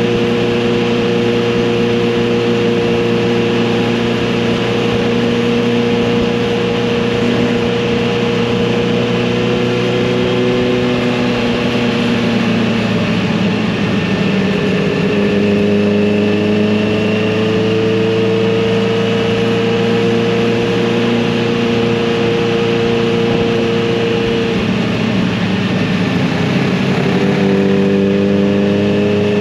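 Kawasaki Z900RS motorcycle's engine and exhaust running under way at a steady cruise. The engine note dips and resettles at a new pitch about halfway through, and shifts again near the end.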